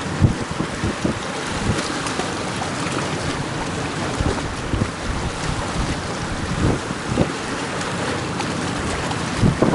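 Gale-force wind buffeting the microphone in repeated low thumps over the steady rush of surf.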